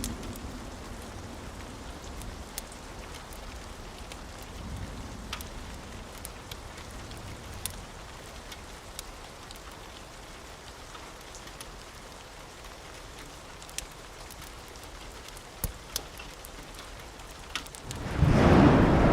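Steady rain falling on a roof, with a faint low rumble of thunder near the start and scattered sharp crackles from a wood fire. About eighteen seconds in, a loud thunderclap breaks in suddenly.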